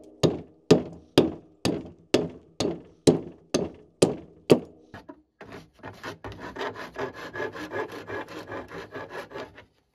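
Tool striking a plane-tree wood board in steady blows, about two a second, while roughing out a wooden peel. The blows stop about halfway, and after a short pause a fast rasping scrape across the wood takes over.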